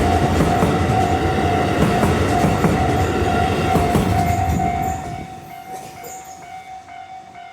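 JR West 221 series electric train passing over a level crossing, wheels clattering over rail joints; the train noise drops away sharply about five seconds in. A level-crossing warning bell rings in repeated dings throughout.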